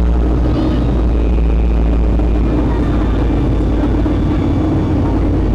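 Steady roar of a Boeing 757-300's jet engines and airflow, heard from inside the passenger cabin in flight, with a deep low hum beneath.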